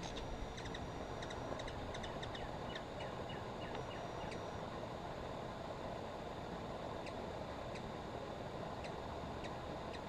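Outdoor ambience: a steady low rumble and hiss, with short, high bird chirps in quick runs over the first few seconds and a few scattered ones later.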